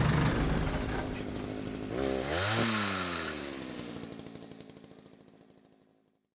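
Chainsaw engine revved up about two seconds in, its pitch then falling away as it winds down, the whole sound fading out to silence near the end.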